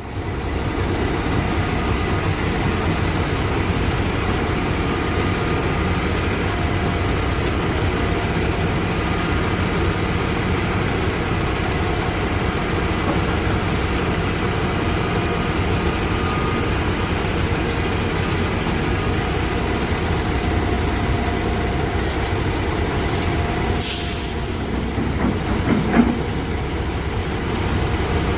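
Heavy diesel construction machinery running steadily as an excavator loads a dump truck. A short hiss of air comes about 24 seconds in, and a single loud knock follows about two seconds later.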